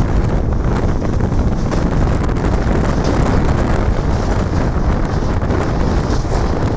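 Wind buffeting the microphone held out of a moving passenger train's doorway, over the steady rumble of the train running at speed, about 80 km/h.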